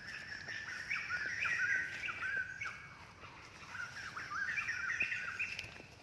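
A bird singing: two phrases of quick, clear chirping notes, each about two seconds long, with a short pause between them.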